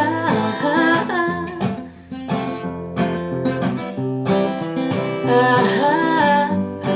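Acoustic guitar played in a gentle folk song's short break between verse and chorus, with a sung note trailing off at the start and a brief vocal line without clear words near the end.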